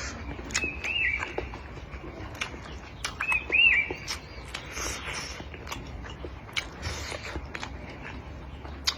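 Close-up eating sounds: chewing and picking through a bony crucian carp, with light clicks of chopsticks and bowl. A small bird chirps twice in pairs, about a second in and again around three and a half seconds in.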